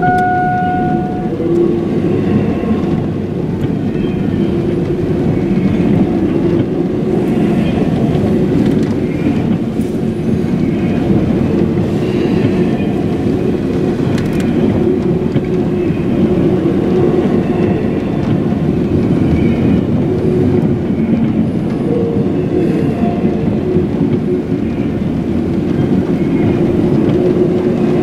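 Double-stack intermodal container train passing close by: a steady rumble of well-car wheels rolling on the rails. A steady tone cuts off about a second in.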